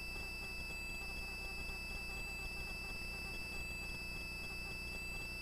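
A faint steady high-pitched electronic tone over a low hiss, with no engine or rotor sound.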